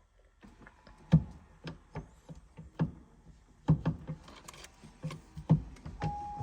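A series of scattered light clicks and knocks, with a steady electronic beep starting near the end.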